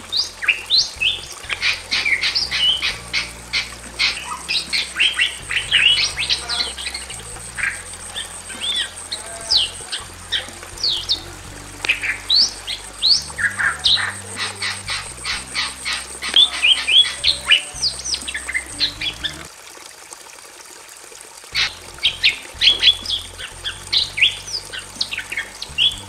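Bali mynas calling: a busy run of short, sharp notes, whistled and harsh, each sweeping quickly in pitch. The calling breaks off for about two seconds near the end, then starts again.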